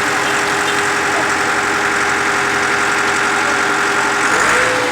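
Engine of a heavy construction vehicle running steadily at idle, its pitch rising briefly near the end.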